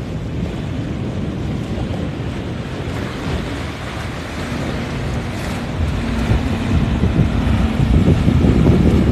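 Wind buffeting the microphone over the sound of surf, growing louder toward the end, with a boat engine droning faintly in the middle.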